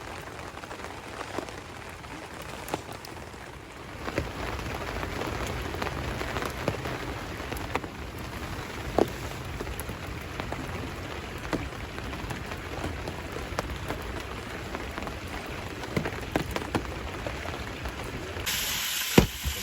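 Light rain pattering: a steady hiss with scattered small drop ticks, a little louder from about four seconds in. Near the end the sound cuts abruptly to a brighter hiss.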